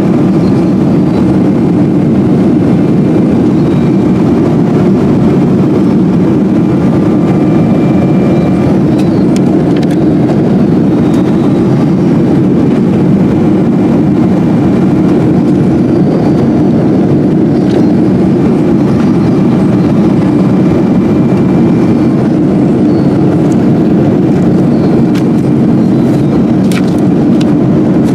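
Steady cabin noise of a Boeing 777-200 in flight: the even rush of the jet engines and airflow heard from inside the cabin, with a few faint clicks near the end.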